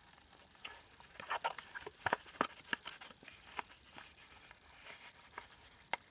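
Paper handling: the pages and an envelope of a handmade paper junk journal rustling and crinkling, with a scatter of short light clicks and taps, busiest from about one to four seconds in and again near the end.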